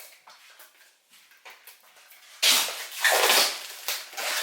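Faint handling clicks, then, about halfway in, a tap turned on: water runs and splashes loudly into the Nespresso machine's plastic water tank as it is rinsed.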